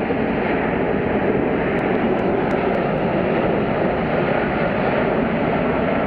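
An Airbus A380 airliner flying past, its four turbofan engines giving a steady, loud jet roar.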